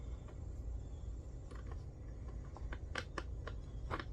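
Light clicks and taps from parts being handled, a quick irregular run of them through the second half, over a low steady rumble.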